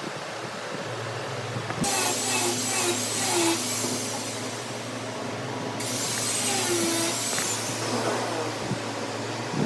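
Wood lathe motor humming steadily while a tool cuts the spinning wood in two long, loud hissing passes. The passes have brief squeals, and the second starts about six seconds in.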